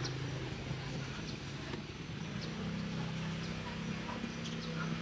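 Street ambience with a motor vehicle engine running steadily as a low hum, and a few faint clicks.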